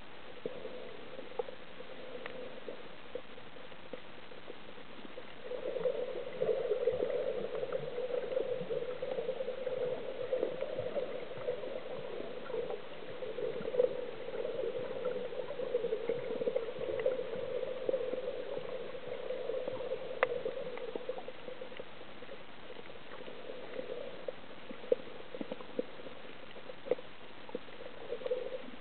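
Water bubbling and gurgling, muffled. It grows louder about five seconds in and eases off after about twenty seconds, with scattered faint clicks.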